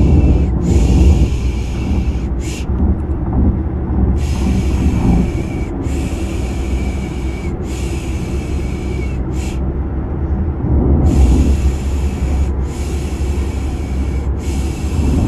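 Steady low rumble of car cabin road noise, played as a baby-soothing sound, with rhythmic 'pişşş' shushing hisses laid over it. The shushes come one after another, each lasting a second or more, with a short one now and then and a pause in them about two-thirds of the way through.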